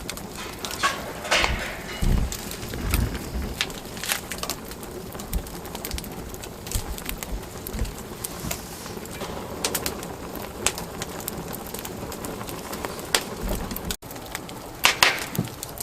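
Wood fire crackling, with irregular sharp pops and snaps of burning logs over a steady hiss.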